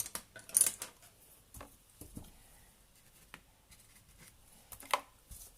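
A small, stiff scrubby brush scratching acrylic paint onto canvas in short, scattered strokes with pauses between them, the clearest about half a second in and again near the end.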